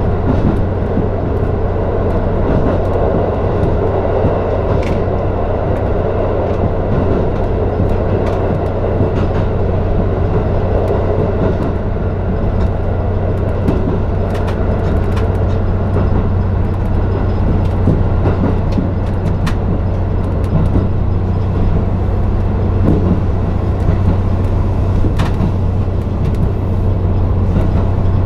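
Diesel limited express train running through the Jōmon Tunnel, heard from inside a passenger car: a loud, steady running rumble with a constant low hum and scattered faint clicks from the wheels.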